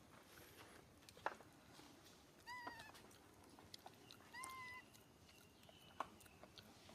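Baby monkey giving two short, high-pitched cries, about two and a half and four and a half seconds in, with a few faint clicks around them.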